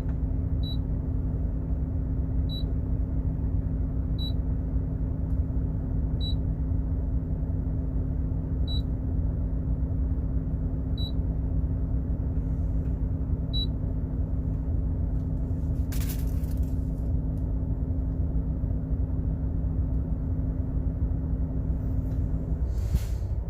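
Truck no-idle parking air conditioner running with a steady low hum and rumble from its compressor and blower, which drops away near the end. Seven short high beeps, about two seconds apart, as its fan speed is stepped with the remote.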